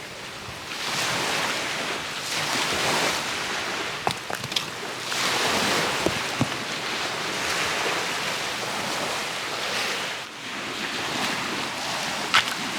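Small, calm sea waves washing onto the shore, the sound swelling and easing every second or two. A few short, sharp clicks stand out above the wash.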